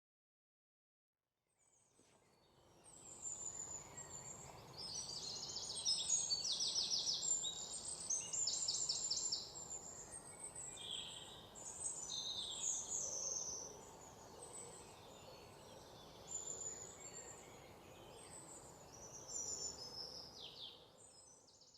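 Several birds chirping and trilling over a steady outdoor hiss. It fades in after about two seconds of silence and dies away at the very end.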